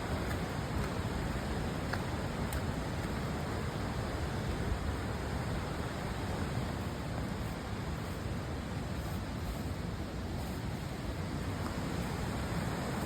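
Steady, even rushing of the Cheakamus River's flowing water.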